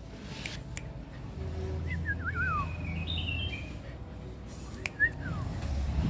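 A bird singing a short warbling phrase about two seconds in, then giving a brief falling call near the end, over a low rumble; a sharp tap comes just before the last call.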